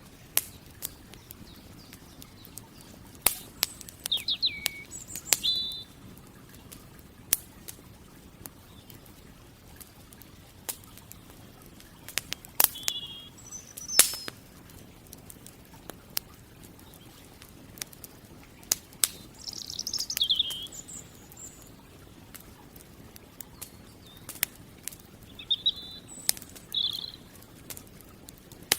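Campfire crackling with irregular sharp pops, and birds calling every few seconds with short high chirps and falling whistles.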